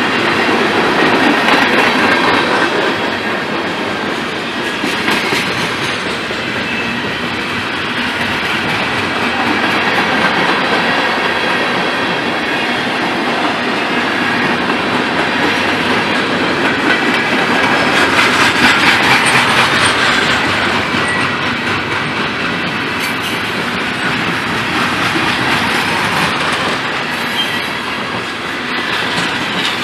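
Freight cars rolling past at close range: a steady rumble and clickety-clack of steel wheels over the rail joints, continuous throughout.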